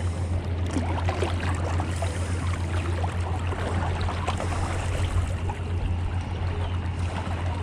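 Lake water lapping and trickling at the shore, many small irregular splashes, over a steady low rumble.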